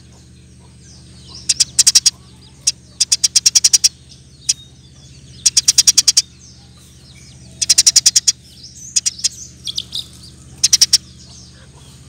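Eurasian tree sparrow chirping hard in rapid bursts of about ten quick, high chirps. The bursts come every second or two, with a few single chirps between them, over a faint steady low hum.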